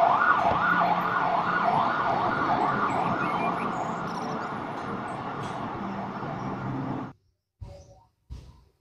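Fire engine siren sweeping rapidly up and down, about two sweeps a second, with the truck's engine running beneath. It gradually fades as the truck pulls away, then cuts off suddenly about seven seconds in.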